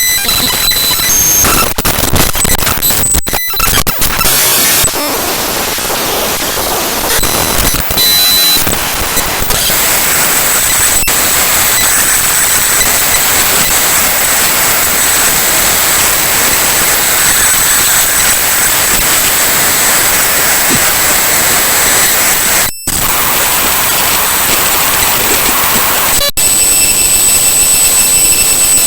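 Loud, harsh digital noise from the bytes of the Windows kernel file ntoskrnl.exe played back as raw data: a dense hiss with steady high whistling tones running through it. The texture changes abruptly several times, with a few brief dropouts.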